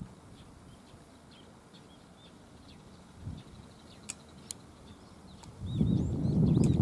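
Small birds chirping and twittering in the background. Two sharp clicks come about four seconds in, and a loud low rumble rises near the end.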